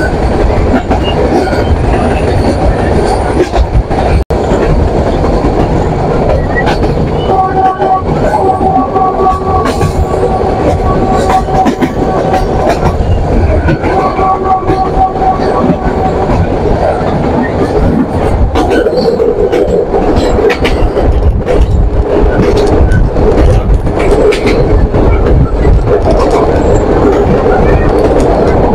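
Metre-gauge diesel passenger train running along the track, heard from an open carriage window: a steady loud rumble and clatter of the wheels on the rails. About seven seconds in, a steady horn tone sounds for about five seconds, then a second, shorter one of about two seconds.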